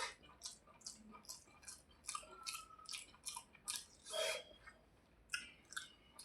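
Close-up wet chewing of rice and fried hilsa fish, a string of short moist mouth clicks about three a second, with one fuller smack about four seconds in.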